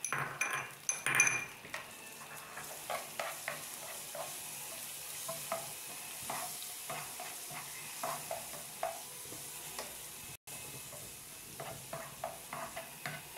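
Ginger-garlic paste sizzling in hot oil in a nonstick frying pan, stirred with a utensil that taps and scrapes against the pan. The loudest taps come in the first second or so.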